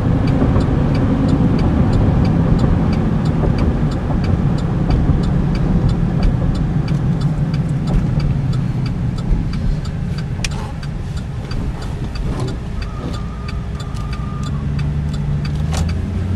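A 2008 Chevy Silverado 1500 pickup being driven, heard from inside the cab: a steady rumble of engine and road noise. A faint, even ticking repeats through it.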